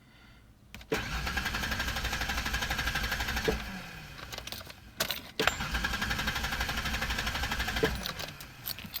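1991 Ford Explorer's 4.0 L V6 cranking on the starter twice, about three seconds each time, turning over fast and evenly but never catching: a crank-no-start.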